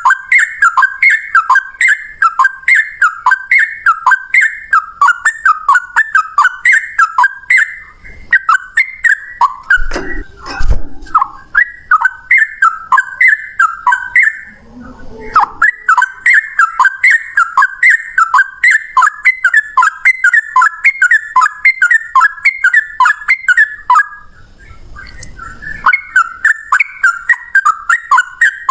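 A male yellow-vented bulbul (trucukan) singing its rapid 'ropel' song: loud whistled notes repeated about three times a second in long runs, broken by a few short pauses.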